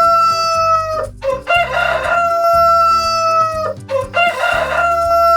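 Rooster crowing three times in a row, each cock-a-doodle-doo ending in a long held note.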